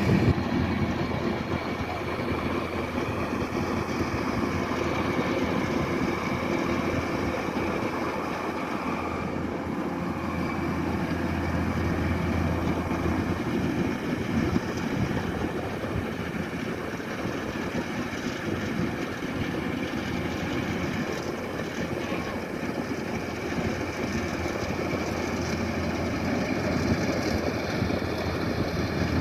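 Kubota DC-108X rice combine harvester running steadily: a continuous low diesel drone with a faint steady high whine over it.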